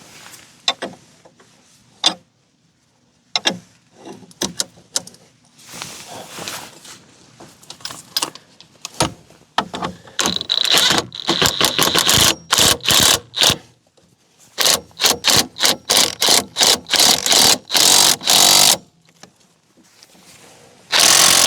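Hand socket ratchet clicking in rapid runs of strokes as suspension bolts are tightened, two long runs in the second half and a short one near the end. Scattered metal tool clinks come before them.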